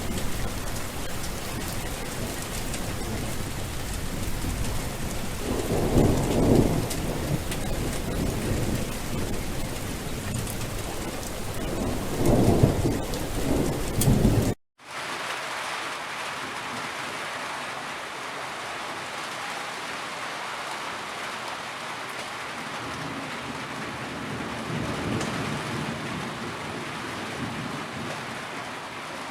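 Heavy rain falling, with two low rolls of thunder about six and twelve seconds in. The sound cuts out for a moment at about fifteen seconds, then resumes as steadier, quieter rain with no thunder.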